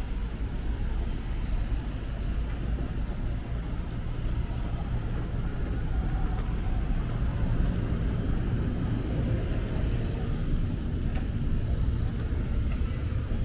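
Steady low rumble of city road traffic, cars running past without a break.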